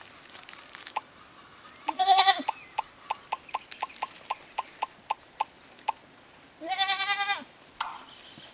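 A goat bleating twice: a short bleat about two seconds in, then a longer, trembling bleat near the end. In between comes a run of quick, even clicks, about four to five a second.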